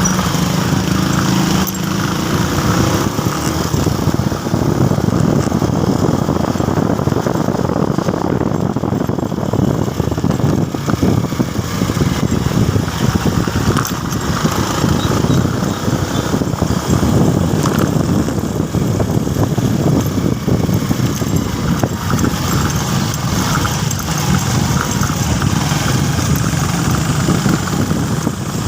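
Motorcycle running on the road, its engine mixed with heavy wind rush on the microphone, steady throughout with a brief low engine tone in the first couple of seconds.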